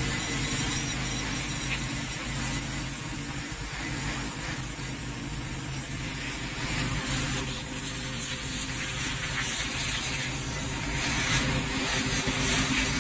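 Pressure washer running, a motor droning steadily under the hiss of the water jet as it blasts grease and oil off an engine oil pan.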